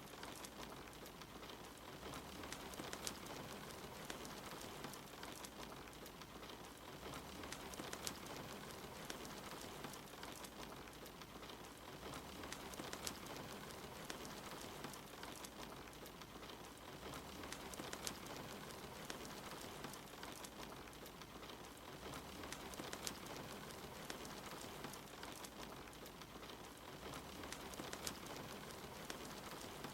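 Steady rain with a wood fire crackling, giving scattered small pops and snaps over a soft even hiss.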